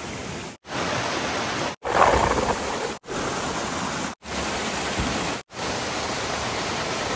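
Steady rushing of flowing water, broken by several short, complete dropouts about a second apart.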